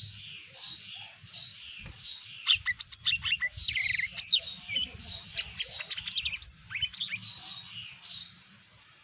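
Cucak ijo mini (lesser green leafbird) singing: a loud, rapid run of sharp chirps and sweeping whistles in the middle, over a fainter chirp repeated about three times a second.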